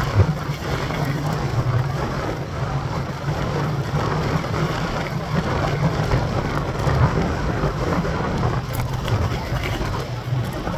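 Steady wind rumble buffeting the microphone of a camera riding along on a moving mountain bike.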